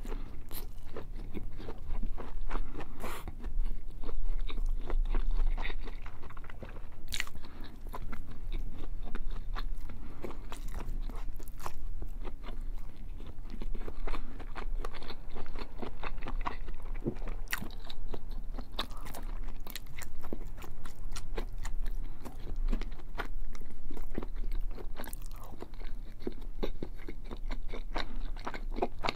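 A person chewing bacon close to the microphone, with many small, sharp crunching and smacking clicks throughout.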